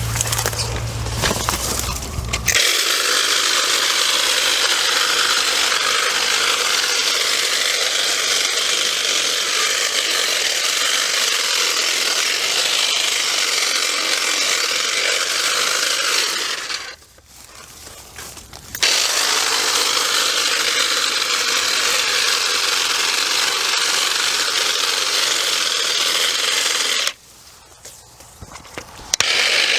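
Cordless electric cutting tool running while cutting through vines and brush, in two long runs with a pause of about two seconds between them, cutting off near the end; the user thinks its battery is starting to get low.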